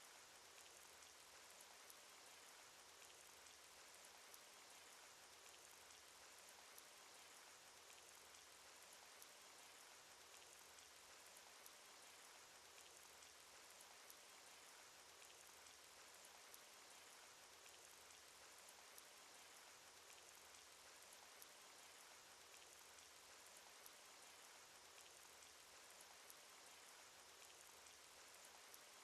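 Rain sound effect: faint, steady rain with scattered small drop ticks.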